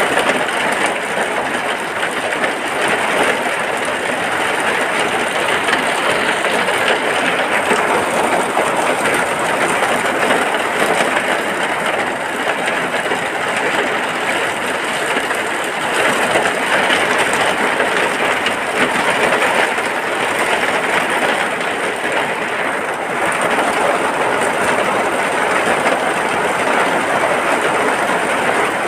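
Steady rain falling, an even dense hiss with no pauses or separate drops standing out.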